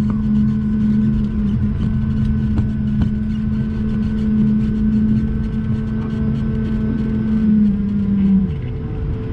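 Cabin noise inside an Airbus A220-300 on the ground after landing: a steady hum from its Pratt & Whitney geared turbofan engines over a low rumble. The hum drops in pitch and fades about eight seconds in.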